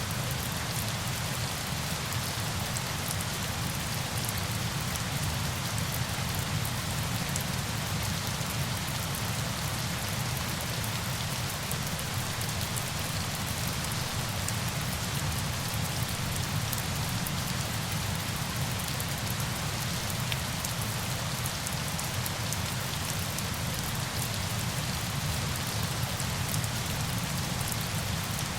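Steady falling water like heavy rain: an even, unbroken hiss over a low rumble, with a fine patter of drops in the highs.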